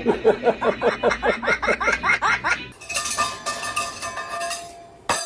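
Pet parrot mimicking laughter: a rapid run of pitched "ha-ha" syllables, about five a second, for almost three seconds. It is followed by a hissy, clattering stretch with a few thin ringing tones.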